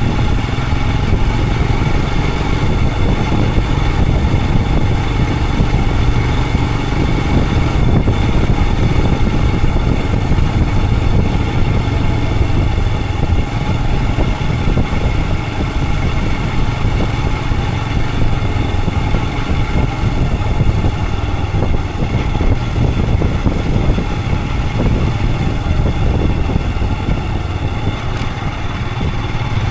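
Royal Enfield Himalayan 411's single-cylinder engine running steadily under way, heard from the rider's position with wind and road noise over it.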